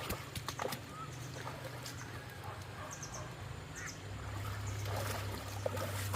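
Short scattered animal calls and clicks over a steady low hum.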